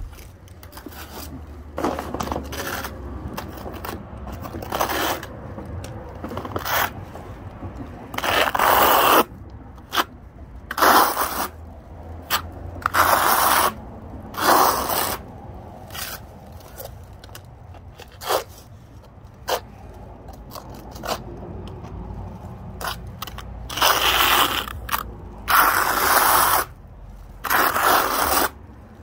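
A trowel scraping cement skim coat across concrete in repeated strokes, each about a second long, at an irregular pace.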